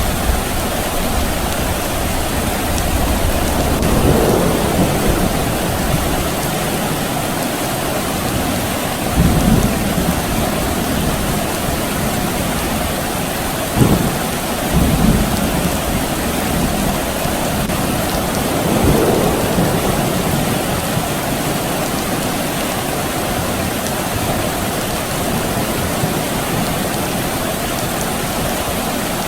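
Steady soft rain with distant thunder rumbling several times.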